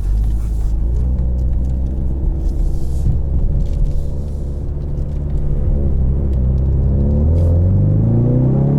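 2020 Ford Mustang EcoBoost's turbocharged 2.3-litre four-cylinder heard through its active valved performance exhaust, running under way at steady revs, then rising in pitch as the car accelerates over the last couple of seconds.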